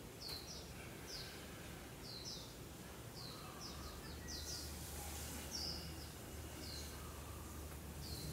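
Small birds chirping: short, high, falling chirps repeated every half second or so, with a faint low hum coming in about halfway through.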